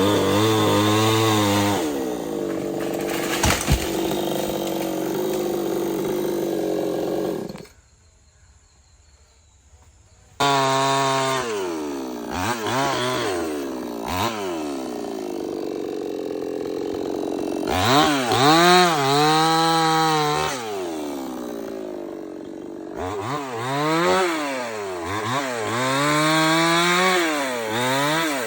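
A Stihl 070, a large two-stroke chainsaw, running under load while cutting, its engine pitch dipping and recovering again and again as the chain bites into the wood. A sharp click comes about three and a half seconds in. The saw sound drops out for about three seconds a third of the way through, then returns abruptly.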